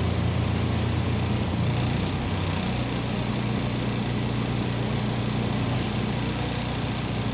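MAZ 203 city bus's diesel engine running, heard from inside the passenger cabin as a steady low hum; the engine note drops and settles about two seconds in.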